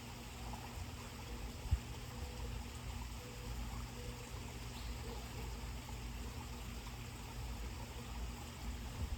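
Steady outdoor background noise: a low rumble under an even hiss, with one brief thump a little under two seconds in.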